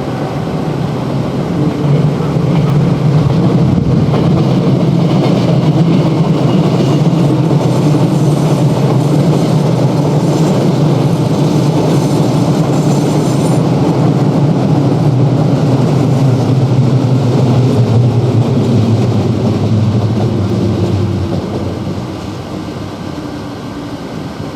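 A train running with a steady low hum, which fades away over the last few seconds.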